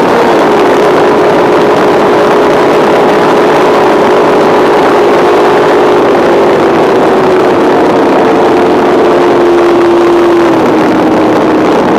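Top Eliminator drag boat engine running loud and steady under a dense roar of noise. Its pitch eases slowly downward across the stretch.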